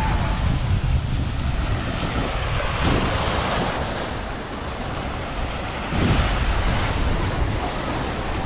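Sea waves washing onto a sandy beach, with two larger surges about three seconds apart, and wind buffeting the microphone with a low rumble.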